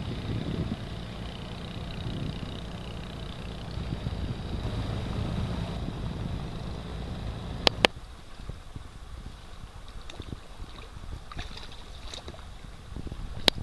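Water lapping and gurgling around a sea kayak, with wind rumbling on the microphone for the first half. Two sharp clicks come just past the middle, after which it is quieter, with small drips and ticks.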